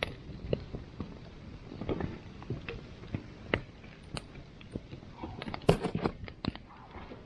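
Wood campfire crackling, with irregular sharp pops and snaps and a denser run of louder pops about five to six seconds in.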